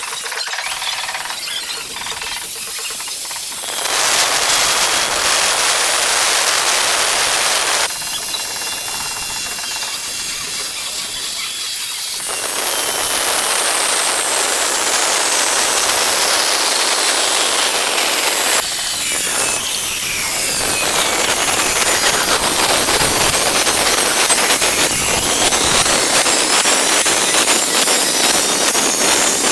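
Angle grinder cutting ceramic tile: a loud, gritty whine in stretches, its pitch falling and then rising again in the second half as the disc works through the cut.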